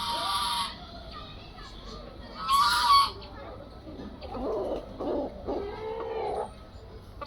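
A large bird honking twice, each call about half a second long: one at the very start and a louder one about two and a half seconds in.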